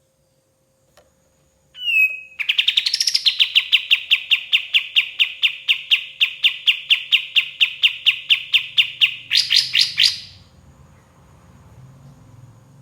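Kapas tembak singing: a short whistled note, then a long, fast trill of evenly repeated notes, about eight a second, ending in a quicker, higher flurry that breaks off about ten seconds in.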